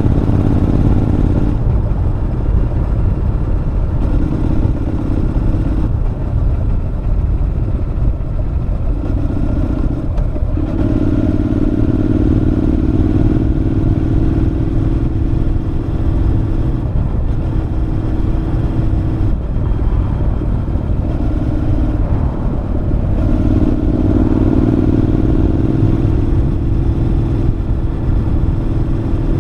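Honda NC750X two-cylinder engine running through a Moriwaki aftermarket muffler while riding. The exhaust note swells and fades every few seconds with the throttle, over a steady low wind rumble.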